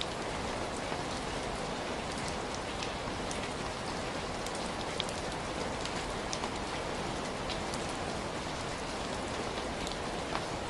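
Steady heavy rain falling, a dense even hiss with many individual drops ticking sharply on a hard surface.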